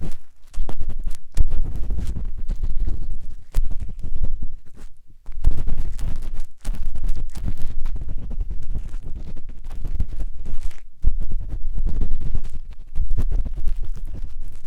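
A matchstick scratching and rubbing inside the silicone ear of a 3Dio binaural microphone, close and dense with a heavy low rumble. It comes in long strokes broken by short pauses.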